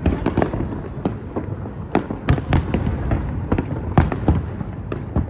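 Aerial fireworks bursting in rapid, irregular succession: many sharp cracks and bangs over a continuous low rumble.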